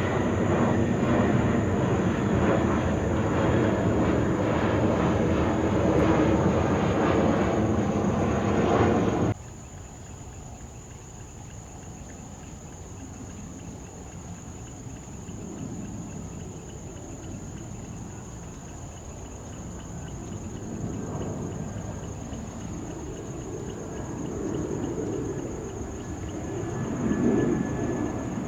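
Jet airliner engine noise, loud and steady, cutting off abruptly about nine seconds in. After the cut a much quieter jet sound slowly builds, swelling near the end.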